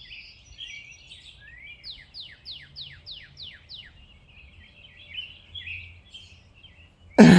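Songbirds chirping. About two seconds in, one bird gives a quick run of about seven notes, each sliding down in pitch.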